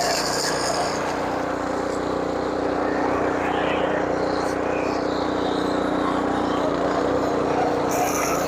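Small engine running steadily at a constant speed, a held hum with a hiss that comes and goes on top.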